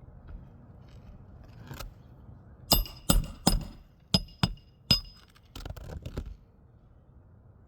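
A hammer driving roofing nails into asphalt shingles: six sharp ringing strikes, three close together and then three more, followed by a brief scraping.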